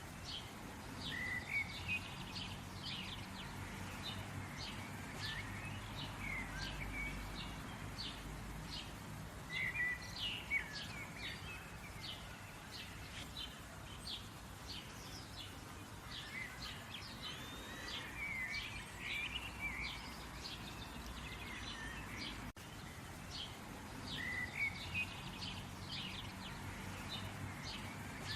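Songbirds chirping and singing in quick runs of short high notes, with a few slurred whistles, over a steady low rumble. The song is cut off briefly about 22 seconds in and then starts over.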